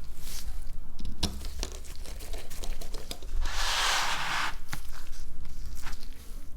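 Small clicks and taps of tools and parts being handled while a smartphone is taken apart, with one harsh scraping noise lasting about a second about halfway through.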